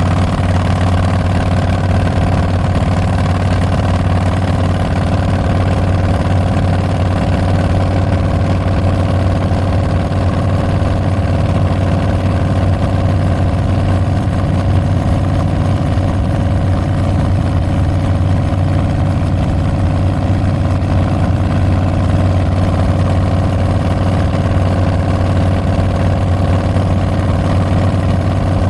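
2022 Harley-Davidson Street Bob's Milwaukee-Eight 114 V-twin running through Tabs Performance slip-on mufflers with Zombie baffles, a loud, deep exhaust note that holds steady, with no revving up or down.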